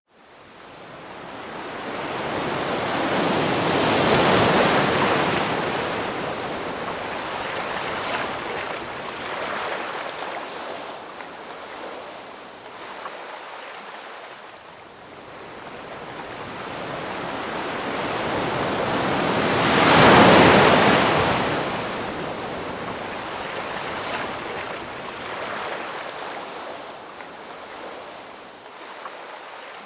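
Ocean surf: waves rushing and breaking onto the shore in slow swells. Two big breakers surge and recede, one about 4 seconds in and a louder one about 20 seconds in, with lower wash between them.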